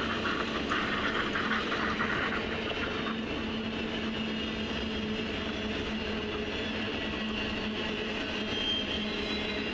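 Double-stack intermodal freight train rolling past, its cars and wheels rumbling steadily on the rails, with a brighter rattling over the first three seconds.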